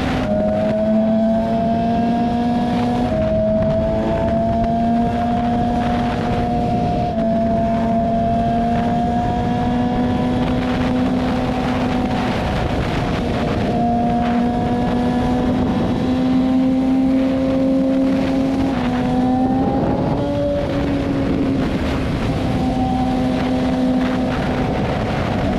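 BMW S1000RR's inline-four engine running steadily under way, its pitch holding almost level with small rises and dips. About twenty seconds in it rises briefly, then drops back. Wind noise rushes underneath.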